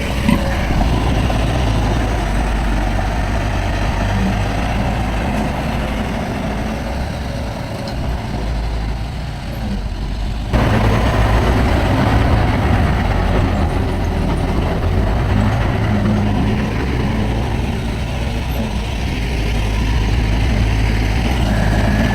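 Heavy diesel earthmoving machinery running steadily with a low engine rumble. The sound jumps suddenly louder about halfway through.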